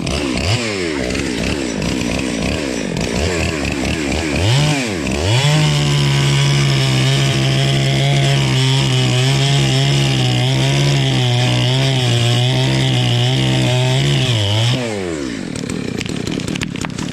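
Chainsaw engine revving up and down several times, then held at full throttle for about nine seconds as it cuts into wood, its pitch wavering slightly under load, then dropping back toward idle near the end.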